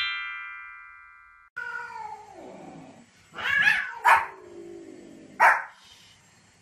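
A short falling chime jingle fades away over the first second and a half. Then a white Pomeranian barks sharply three times, about a second apart, with drawn-out falling cries before and between the barks.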